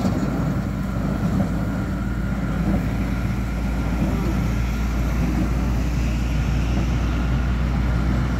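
A tractor running steadily while it drives a high-density baler: a low, even engine drone with a faint high whine over it.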